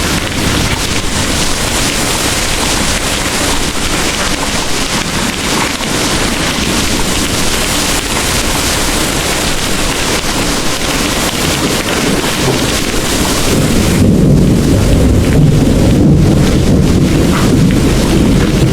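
Heavy rain pouring steadily. About fourteen seconds in, a deep rolling rumble of thunder swells and becomes the loudest sound, while the rain's hiss thins out.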